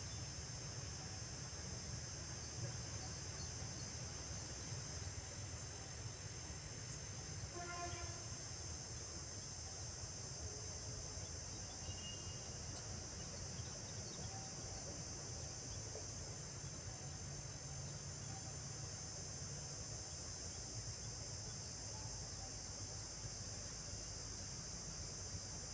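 Steady, high-pitched drone of an insect chorus, crickets or cicadas, over a low rumble. A brief pitched call sounds about a third of the way in.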